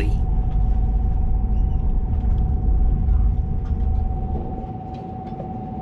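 Inside a Transwa WDA-class diesel railcar running at speed: a heavy low rumble from the running gear and engine, with a steady thin whine over it. The rumble eases about four seconds in.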